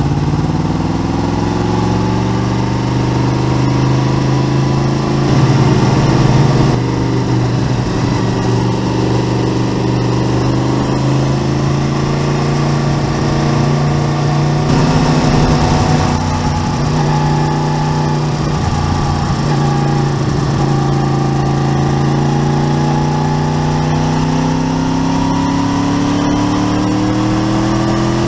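Motorcycle engine running under way, its pitch sagging and rising with road speed, then climbing steadily over the last several seconds as the bike accelerates.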